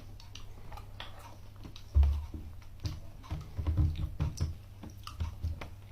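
Scattered small clicks and a few soft low thumps, the loudest thump about two seconds in and a cluster of them a little later.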